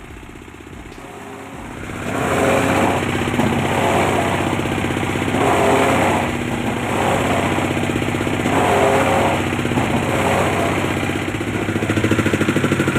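Engine-driven wood-processing machine running. It grows much louder about two seconds in, with a surge of noise about every three seconds and a faster regular pulsing near the end.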